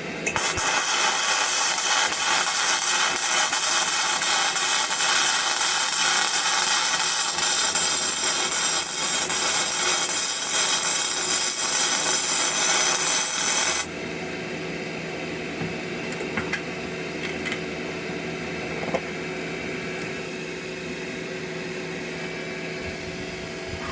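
Gasless flux-core arc welding with a Parkside PMSG 200 A1 inverter welder: the arc runs steadily while a bead is laid, then stops abruptly about 14 seconds in. After that only a lower steady hum and a few faint ticks remain.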